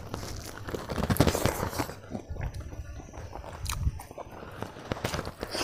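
A person chewing a mouthful of chicken and rice close to a clip-on microphone: repeated lip smacks and crunching bites.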